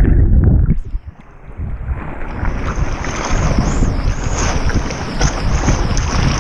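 Churning water noise on an action camera's microphone in the sea, dropping briefly about a second in, then rising again with a wavering high whine from about two seconds in.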